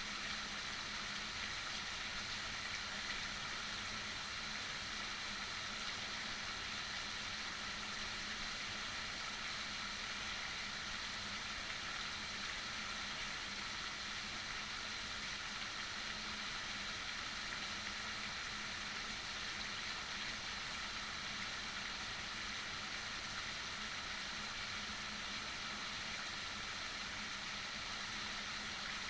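Heavy rain falling steadily: an even, unbroken rush with no single drops or other events standing out, and a faint steady hum underneath.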